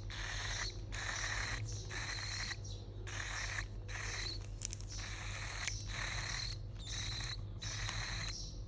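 Young cockatiel giving a run of raspy, hissing calls, each about half a second to a second long with short breaks between.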